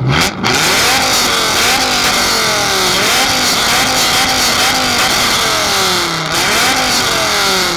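Dodge Viper's V10 engine revved hard over and over, its pitch climbing and dropping about once a second.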